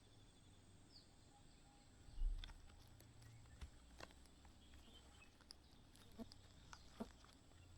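Near-silent outdoor ambience. A dull low thump comes about two seconds in, with scattered faint clicks and a brief faint bird chirp about a second in.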